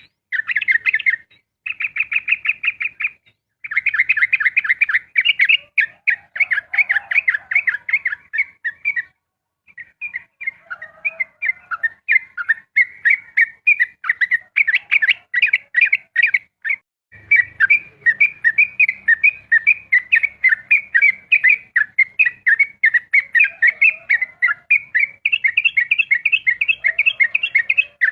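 Yellow-vented bulbul (trucukan) singing its rapid 'ropel' song: long runs of fast, repeated chattering notes, broken by a few short pauses.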